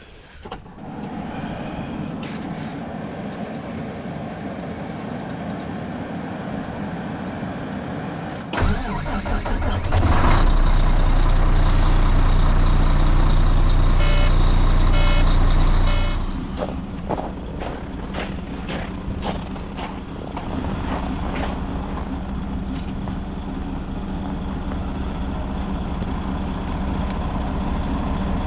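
Semi truck's diesel engine starting. It cranks and catches about eight and a half seconds in, runs loud and low for several seconds with a quick run of beeps, then settles to a steadier, quieter idle.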